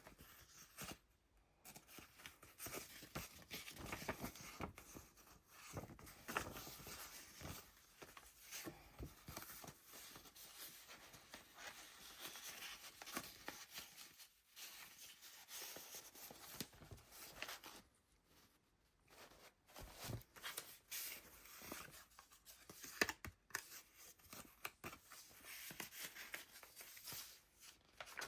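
Paper pages of a handmade junk journal being turned and handled: faint, irregular rustling and crinkling with small taps and ticks, broken by a few short pauses and one sharper tick about two-thirds of the way through.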